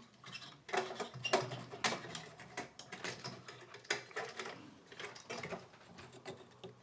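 Irregular clicks, knocks and light rattles of metal parts and tools being handled while a computer power supply is taken apart, loudest about a second in and again around four seconds.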